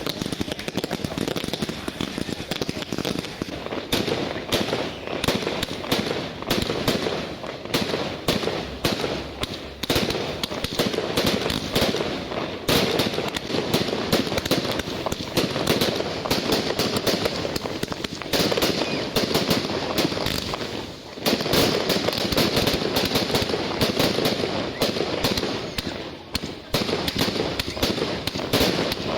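Beach fireworks display: shells and crackling effects bursting in a dense, near-continuous barrage of rapid bangs, easing only briefly about two-thirds of the way through and again near the end.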